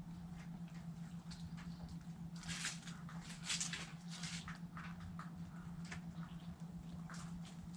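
Chickens pecking and picking at food scraps: a quick, irregular run of small clicks and taps, busiest a few seconds in, over a steady low hum.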